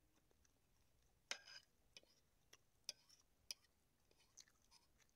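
Close-up eating sounds: someone chewing fish, with a handful of sharp, wet mouth clicks and smacks. The loudest comes about a second in, and several fainter ones follow at irregular intervals.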